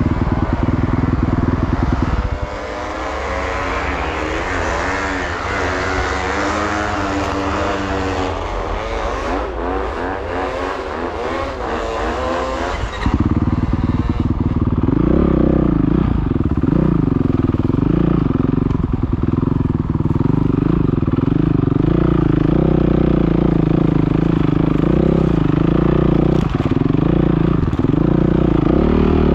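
Dirt bike engines running and revving up and down, the pitch rising and falling repeatedly; the sound changes abruptly about thirteen seconds in, becoming louder and deeper.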